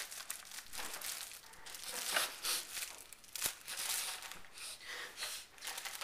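A popcorn bag being crinkled, making irregular rustling crackles that come and go.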